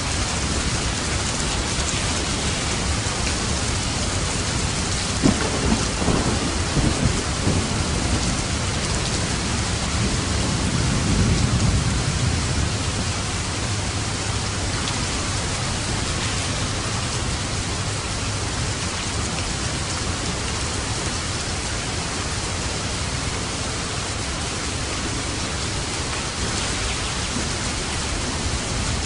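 Steady heavy rain. A thunderclap cracks about five seconds in and rolls into low rumbling that swells and fades by about twelve seconds.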